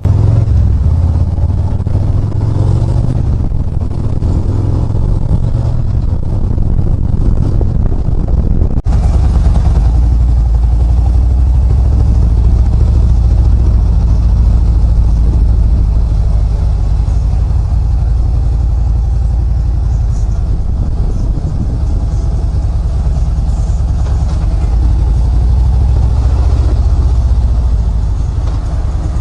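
Harley-Davidson Ultra Limited's V-twin engine running steadily with a deep, loud rumble, broken once by an abrupt cut about 9 seconds in.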